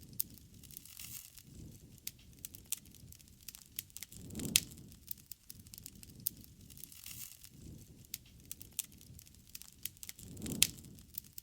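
Wood campfire crackling steadily with irregular snaps and pops, two louder pops about four and a half and ten and a half seconds in, over a soft low flame rumble.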